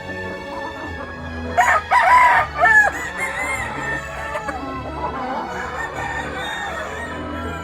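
A gamefowl rooster crowing loudly, a crow of about a second starting about one and a half seconds in, among other chickens clucking, over background music.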